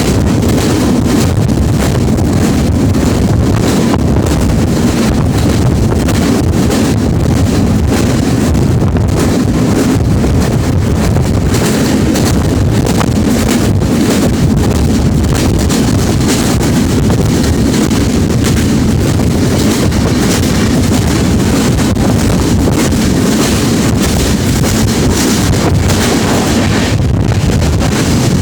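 Steady, loud rumble of a moving train, with wind buffeting the microphone.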